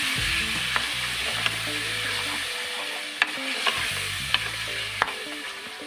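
Tomatoes, onion and spices sizzling in hot oil in an aluminium pressure cooker while being stirred, with a steady sizzle and half a dozen sharp knocks of the spatula against the pot.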